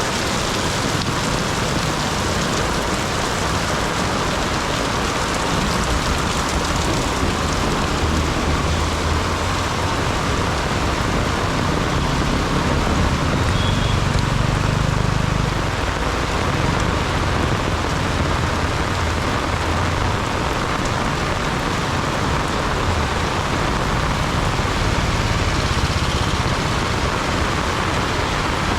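Heavy rain pouring down in a steady, dense hiss, with the low sound of passing road traffic swelling and fading underneath, loudest about halfway through.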